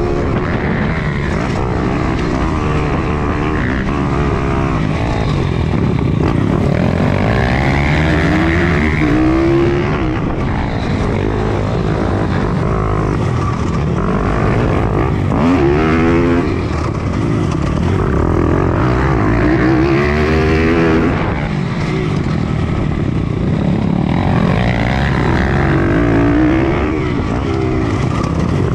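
Pit bike's single-cylinder four-stroke engine racing on a dirt track, heard from onboard: it revs up in rising sweeps every few seconds and drops back as the rider shifts and backs off the throttle for the corners.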